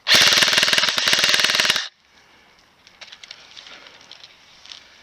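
Airsoft gun firing a loud full-auto burst of rapid, evenly spaced shots that lasts just under two seconds and stops abruptly. Faint rustling and scattered clicks follow.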